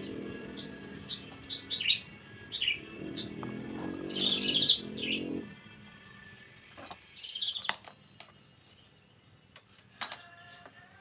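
Birds chirping in short high calls, over a low steady sound that stops about halfway through; a few sharp taps near the end.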